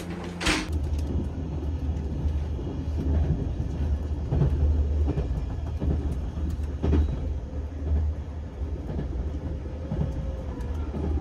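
Limited Express Shinano train running, heard from inside the carriage: a steady low rumble with occasional clacks over the track. A sharp knock about half a second in, just as the rumble begins.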